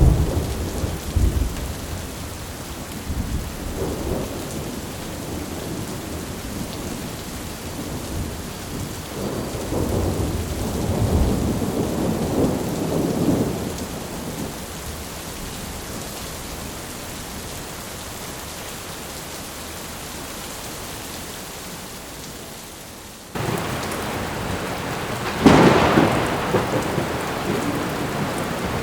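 Thunderstorm recording: steady rain with rolling thunder, low rumbles near the start and a longer one about a third of the way in. Near the end the rain suddenly gets louder and a sharper, louder clap of thunder follows.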